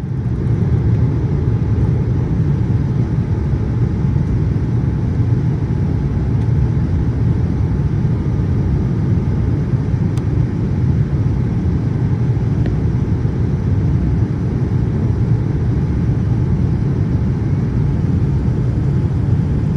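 Steady low rumble of a Boeing 787-8 airliner's engines and rushing air, as heard inside the cabin, without any change in level.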